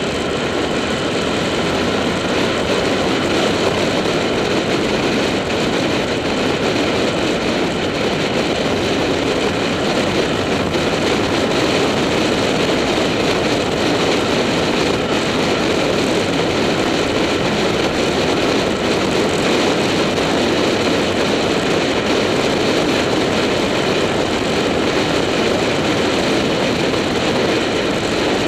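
Motorcycle ridden at steady speed on the open road: the engine runs evenly under a heavy rush of wind on the camera's microphone.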